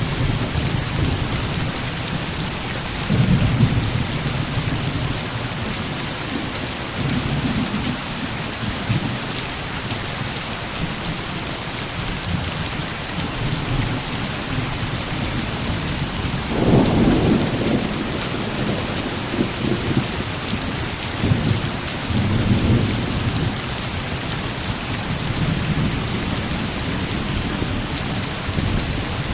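Heavy rain falling steadily, with several low rolls of thunder rumbling under it; the loudest roll comes a little past halfway.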